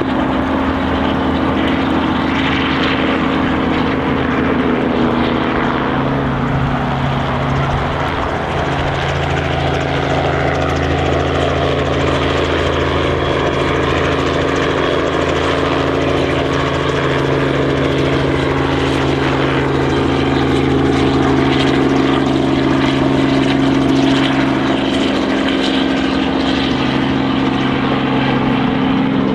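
Steady drone of heavy vehicle engines running. A second low hum joins about six seconds in, over a constant background of engine and road noise.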